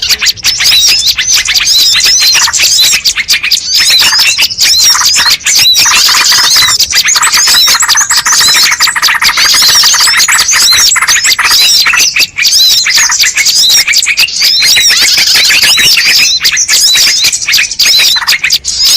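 Bird-lure (pikat) recording: a dense, continuous chorus of many small birds chirping and calling over one another. It is loud throughout, with a run of rapid, lower trilling notes in the middle.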